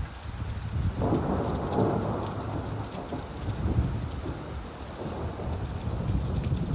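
Steady rain with a low rolling rumble of thunder that swells about a second in and then rumbles on underneath the rain.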